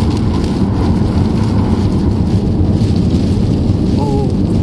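Rain hitting a moving car, heard from inside the cabin over a steady low rumble of road and engine noise.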